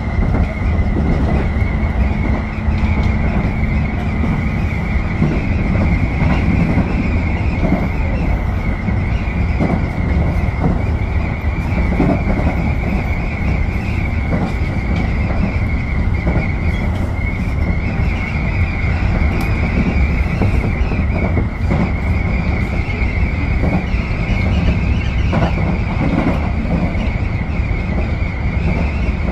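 Tobu 10030-series electric train running along the line, heard from inside: a steady low rumble from the wheels and track, with a continuous high tone that wavers slightly and occasional short knocks.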